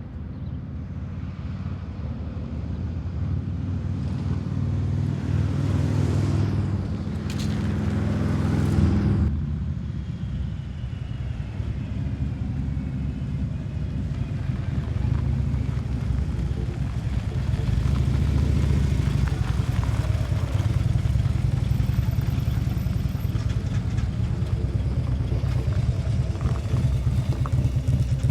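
Motorcycle engine running steadily under way, a low drone that swells for a few seconds and eases off about ten seconds in.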